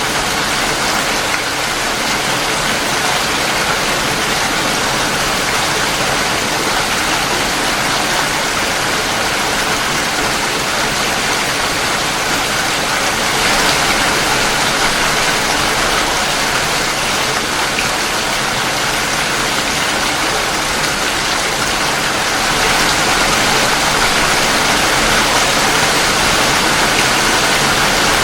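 Steady heavy rain, an even dense hiss of falling water that grows slightly louder about halfway through and again near the end.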